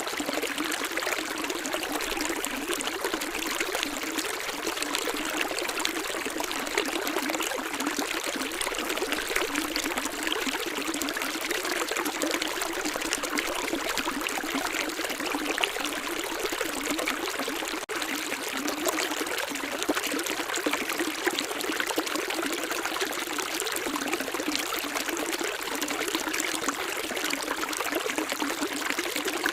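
Running water of a small stream, a steady trickling and splashing with no let-up.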